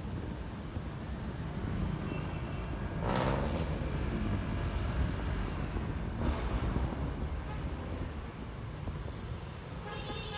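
Riding noise from a Honda ADV 150 scooter in traffic: a steady low engine and wind rumble, with two vehicles passing close about three and six seconds in, each briefly louder and falling in pitch.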